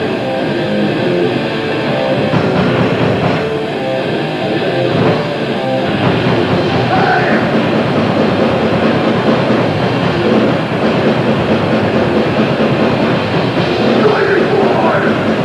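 Live grindcore band playing at full volume: heavily distorted guitars, bass and fast drums in a dense, unbroken wall of sound.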